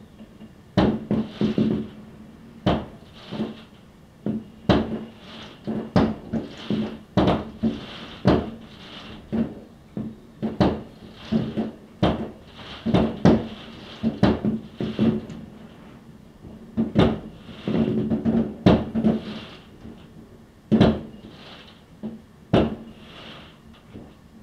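Fireworks going off: an irregular run of sharp bangs, about one or two a second, each followed by a short hissing, crackling tail.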